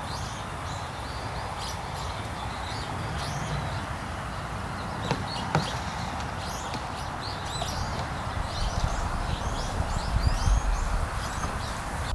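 Small birds chirping repeatedly, many short high calls, over a steady outdoor background rush.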